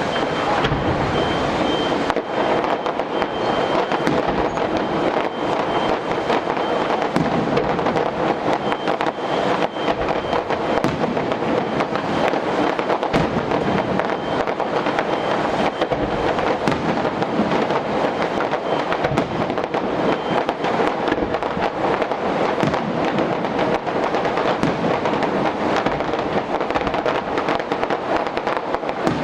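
Fireworks display going off in a dense, continuous crackle of many rapid bangs and pops, with no break.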